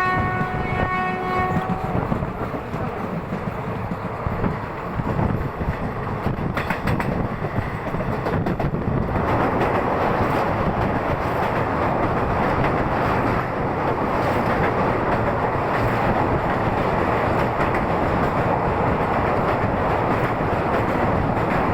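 Train horn holding one steady note that cuts off about two seconds in, followed by the steady rumble of a train running on the rails, which becomes louder and brighter about nine seconds in.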